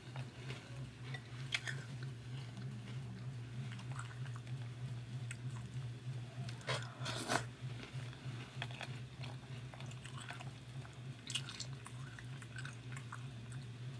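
Close-up chewing and crunching of Froot Loops cereal with marshmallows in milk, with a few sharp clicks as the spoon scoops from the glass bowl. A steady low hum runs underneath.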